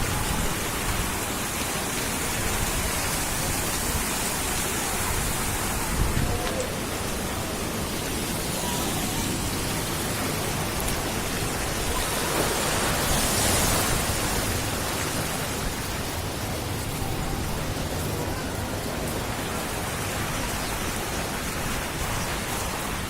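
Steady rushing noise, with some low buffeting right at the start and a brief swell about halfway through.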